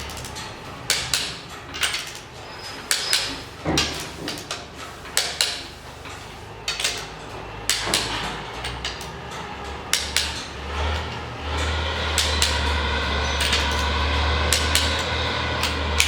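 Sharp metallic knocks and clicks of hand tools on metal, coming irregularly one or two a second. From about eleven seconds in, a steady low drone of a running engine sets in beneath them.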